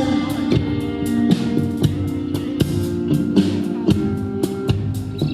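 Live band playing an instrumental passage of a pop song, with no singing: drum kit keeping a steady beat under guitar.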